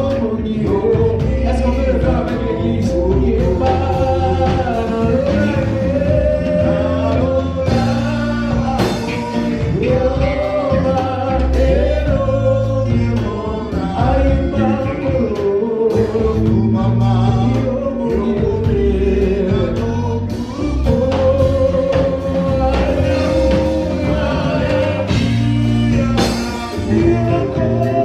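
Live gospel worship music: a band with bass and drums playing while singers hold sustained sung lines.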